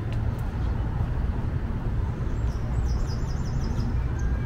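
A small songbird gives a quick run of about eight falling chirps a little over two seconds in, over a steady low rumble.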